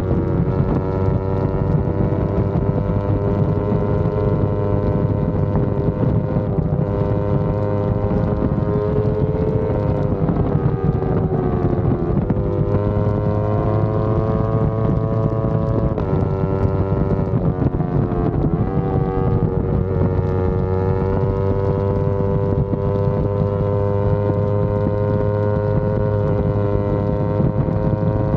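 Yamaha R25 parallel-twin engine running at steady riding revs, with heavy wind buffeting on the microphone. The engine note sags and climbs back a few times, around a third of the way in, about halfway and again shortly after.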